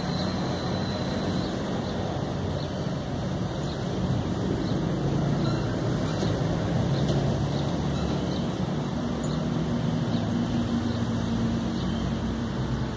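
A steady low mechanical rumble, with faint short high chirps repeating about once a second.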